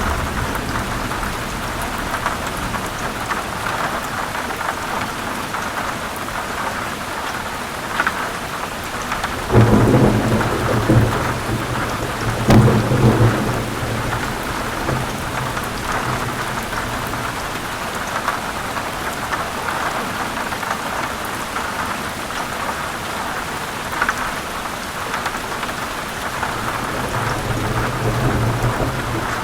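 Heavy rain falling steadily on forest leaves, with rolls of thunder: two low rumbles about a third of the way in and another building near the end.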